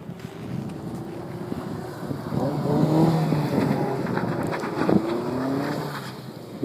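Honda S2000's four-cylinder engine revving up and down through an aftermarket exhaust while the car drifts in snow, getting louder about two seconds in and easing off near the end.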